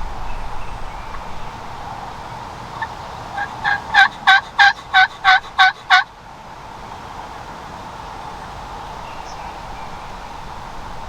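A series of about eight turkey yelps, about three a second, growing louder and stopping abruptly about six seconds in.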